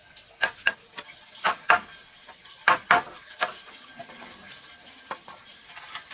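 Sharp knocks, mostly in pairs about a quarter second apart, thinning out after the first half, over a steady high-pitched insect buzz.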